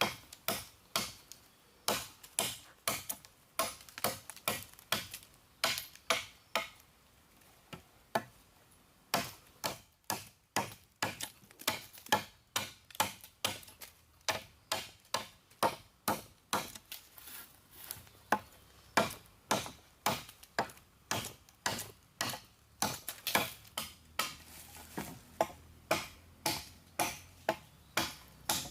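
A blade chopping, sharp even strikes about two or three a second, with a pause of about two seconds about a quarter of the way in.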